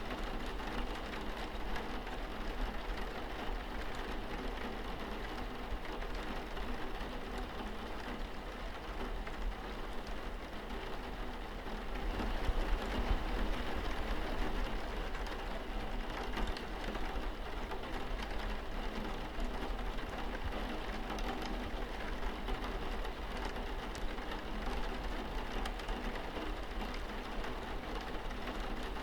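Steady rain falling on a window pane, an even wash of drops with a steady low hum underneath; it swells slightly for a few seconds near the middle.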